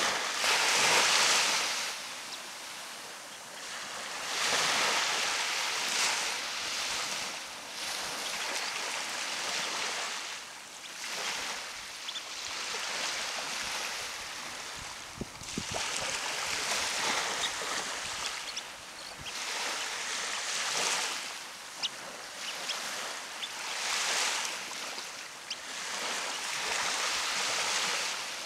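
Ocean surf washing onto a beach, the hiss of the small waves swelling and ebbing every few seconds.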